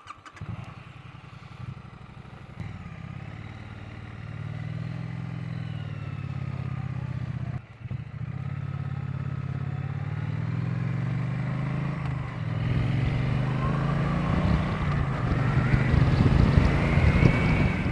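Triumph Bonneville T100's parallel-twin engine running under way, its pitch rising and falling with the throttle. It drops briefly about eight seconds in, then gets louder and higher as the bike accelerates near the end.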